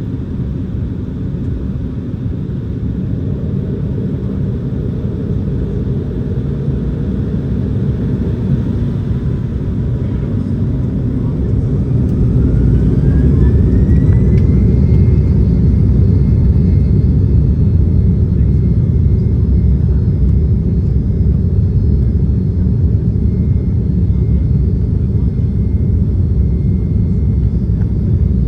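Embraer E195's GE CF34-10E turbofan engines, heard inside the cabin, spooling up to takeoff thrust. About halfway through, a whine rises in pitch and holds as the low rumble grows louder, then the rumble runs steady.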